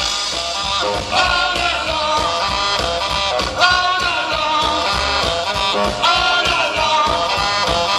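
Live rock and roll band playing an instrumental passage, a melody line over a steady beat.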